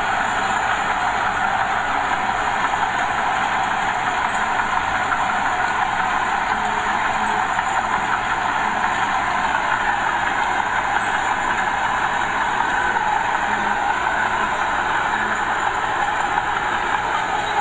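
Diesel engine of earthmoving machinery running steadily, with no breaks or sudden knocks.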